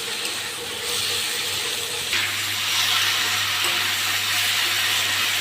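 Meat and liver frying with onions in oil in a kadai, a steady sizzling hiss that gets louder about two seconds in.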